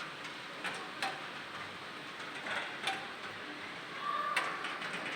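Heavy rain falling: a steady hiss with scattered sharp ticks of drops striking, and a brief higher tone about four seconds in.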